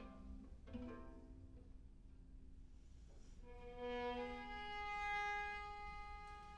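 Live chamber music: a few short low viola notes, a brief pause, then a held chord of several notes that swells in about three and a half seconds in and keeps ringing.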